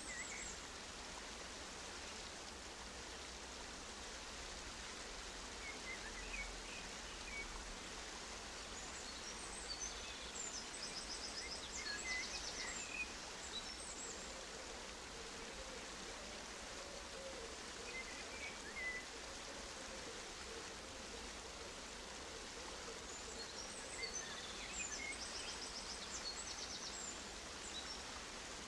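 Steady rush of running water in an outdoor aviary, with small finches chirping and giving rapid high trills in two brief flurries, about a third of the way in and again near the end.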